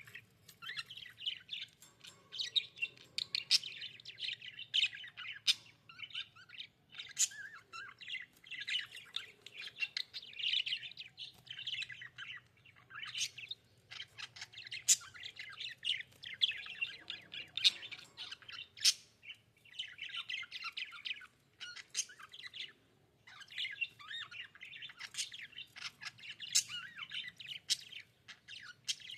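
Budgerigars warbling, with a fast stream of chattering interrupted by sharp high chirps and brief squawks, pausing for a moment every few seconds.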